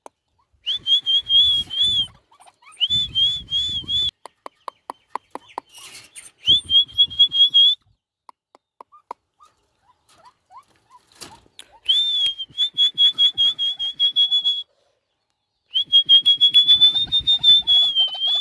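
White-breasted waterhen calling: bouts of rapid, high piping notes repeated several times a second, about five bouts with short pauses between them.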